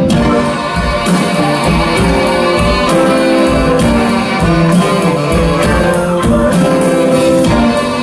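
Live blues band playing the instrumental opening of a slow blues, with guitar over a steady beat.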